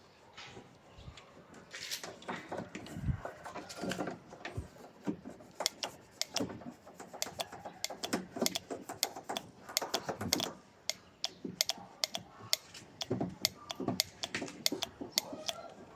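Hand work on engine parts: small metal parts and tools clicking and tapping, in irregular sharp clicks that grow thicker after the first few seconds.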